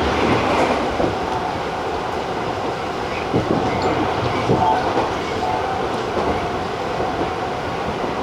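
Tobu TJ Liner electric train running at speed, heard from the front of the train: a steady rumble of wheels on rail, with a few rail-joint knocks and brief faint wheel squeals in the middle.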